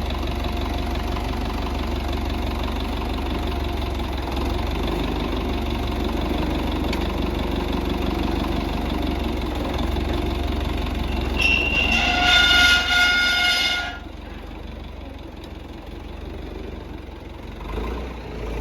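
Tractor engine running steadily. About twelve seconds in, a loud, steady high-pitched tone sounds for about two seconds. After it stops, the engine sound drops to a lower level.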